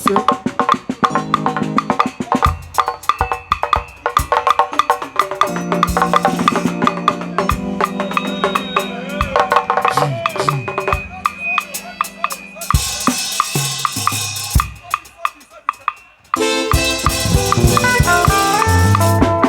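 Live band music without singing: busy drums and hand percussion with a cowbell-like click and held notes over them. The music thins out about 16 seconds in, then the full band comes back in with a stepping melodic line.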